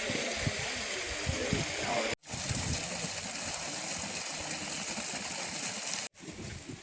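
Steady rush of water flowing through the terraced geothermal hot-spring pools, broken by two brief dropouts about two and six seconds in.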